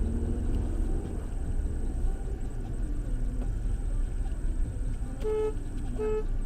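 Car horn honked twice in short blasts, near the end, over the low steady rumble of the car's running engine heard from inside the cabin.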